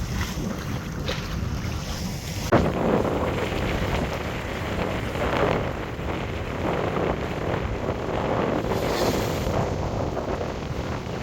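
Wind buffeting the microphone over water rushing and splashing past a sailboat's hull in choppy water, with a sudden jump in the noise about two and a half seconds in.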